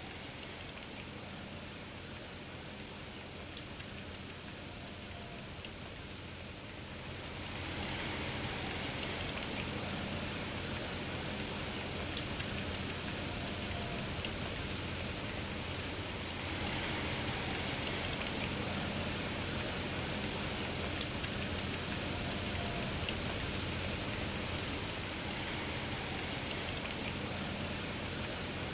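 Steady rain falling in an even hiss, with a single sharp tick of a heavier drop about every nine seconds. The rain grows a little louder about a quarter of the way in.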